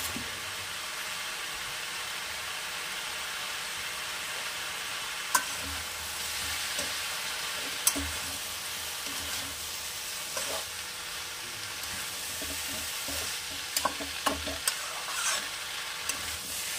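Chopped vegetables sizzling steadily in oil in a metal kadai over a high gas flame. They are being stirred, and the utensil scrapes and knocks against the pan now and then, more often in the second half.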